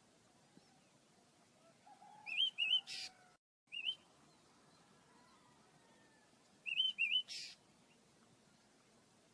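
Pet birds chirping: two groups of short, quickly rising chirps, each closed by a brief harsh note, about two seconds in and again about seven seconds in.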